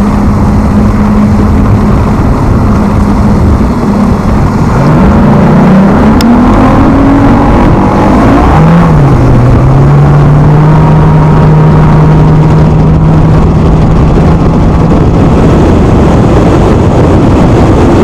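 An engine running loudly under heavy wind noise. Its pitch climbs over a few seconds, then drops about halfway through and holds steady at a lower speed.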